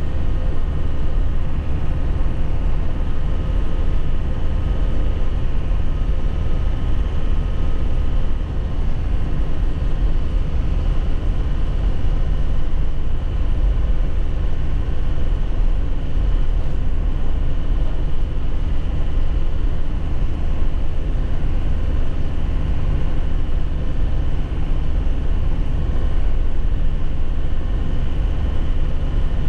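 2001 Nissan Cabstar light truck's engine running steadily under way, with road and tyre noise; no gear change or rev change.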